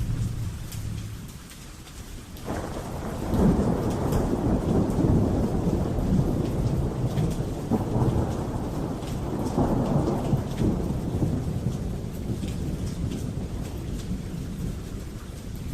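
Steady rain with a long roll of thunder. The thunder breaks in about two and a half seconds in, swells and rumbles for some ten seconds, then dies away under the rain.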